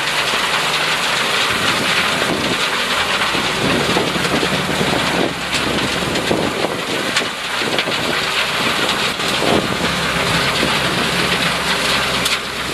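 T5 screening separator running, with loose material clattering and pouring through it in a dense, steady rattle of many small impacts.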